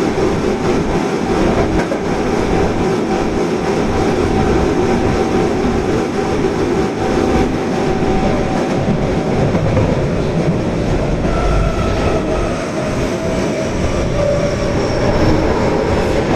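Osaka Metro Tanimachi Line subway train running between stations, heard from inside the car: a steady rumble of wheels on rail, with a faint motor whine heard as thin tones over it.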